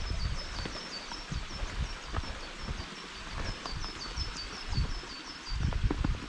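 A small songbird singing a long, rapid run of short, high notes, each dropping in pitch, about five a second, stopping shortly before the end. Underneath are low thuds and rustling from a hiker walking on the trail.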